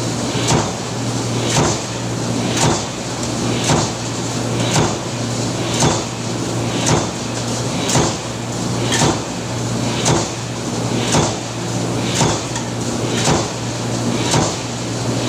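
Power press stamping in a steady rhythm, one sharp clunk about every second, over the constant hum of the running machine.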